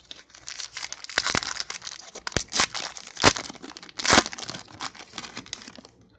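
Foil wrapper of a trading-card pack being torn open and crinkled, with several sharper crackles among the rustling.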